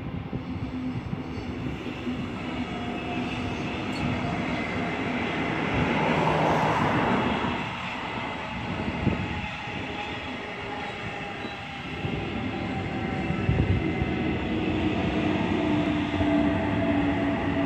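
DB class 146 electric locomotive and its double-deck coaches running past: a continuous rumble of wheels on rail with a steady electric hum that grows louder near the end as the locomotive draws near.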